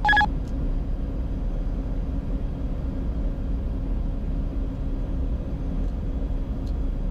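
Steady cockpit noise of a Bombardier Challenger 605 on final approach: airflow and engine hum with a low steady drone. Right at the start a short electronic beep sounds, the end of a two-beep cockpit alert that follows the autopilot being switched off.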